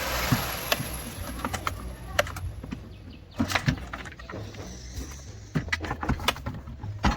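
Scattered clicks and knocks of hand work on a car, after a short hiss at the start.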